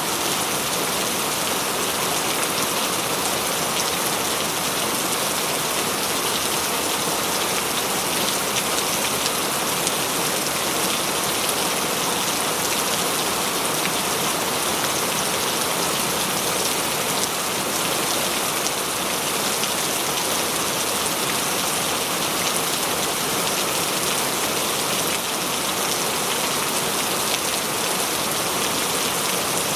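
Steady heavy tropical rain falling, a dense even hiss of drops hitting surfaces with fine patters throughout.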